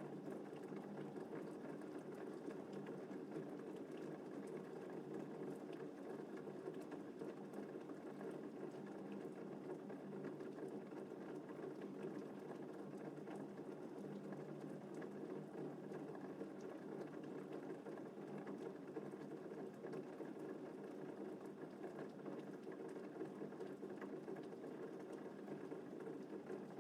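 Steady gentle rain: an even hiss with faint, scattered drop ticks and no thunder.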